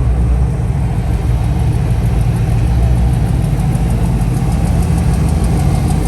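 A car engine running at low speed with a deep, steady rumble. A faint, fast, high ticking joins about halfway through.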